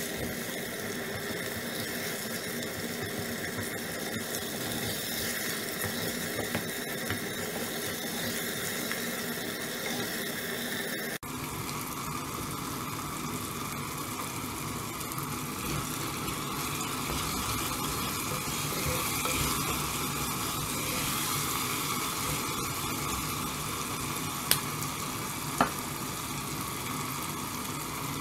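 Chopped onion and tomato frying in oil in a clay pot, sizzling steadily while stirred with a wooden spoon. Two sharp clicks come near the end.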